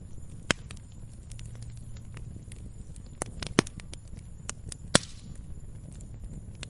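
Log fire crackling: scattered sharp pops and small ticks from the burning wood over a low, steady rumble of the flames, with the loudest pops about half a second in, around three and a half seconds, and about five seconds in.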